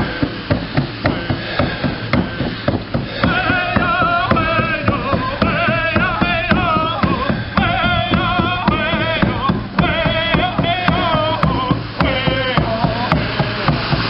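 A drum beaten in a steady beat of about two strokes a second, joined about three seconds in by singing voices with a wavering pitch, a drum song.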